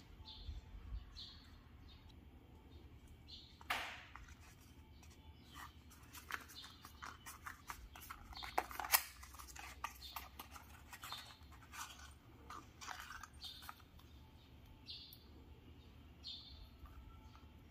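Faint, irregular clicks and clatter of hand tools and engine parts being handled, busiest in the middle with a sharper knock about four seconds in and the loudest click near nine seconds. Short bird chirps sound now and then.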